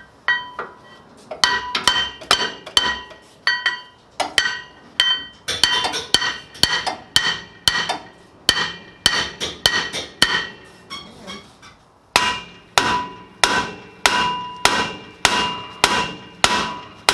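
Repeated hammer blows on metal, each strike ringing with a bright metallic tone. The blows come irregularly at first, then after a short lull about twelve seconds in settle into a steady run of about two a second.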